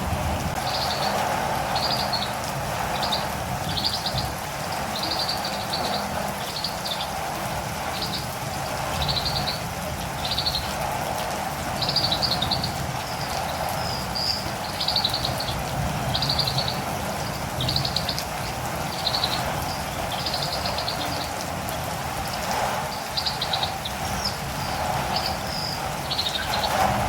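Catirumbava bird calling in short high chirps, about one a second, over steady rain.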